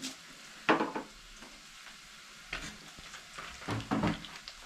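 Chopped onions and curry powder frying in cooking oil in a pan: a steady sizzle, with a spoon scraping and knocking against the pan, sharply about a second in and a few more times near the end.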